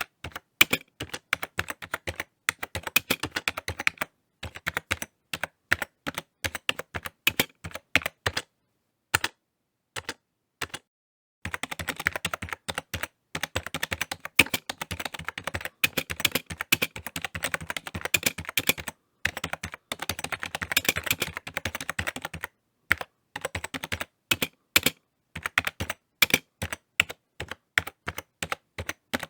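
Typing on a computer keyboard: quick runs of key clicks broken by short pauses, with a long pause about a third of the way in before a dense burst of fast typing.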